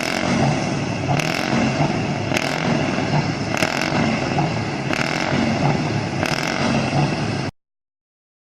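Heavy truck engine running steadily, with a sharp tick or hiss about every second and a bit. The sound cuts off suddenly near the end.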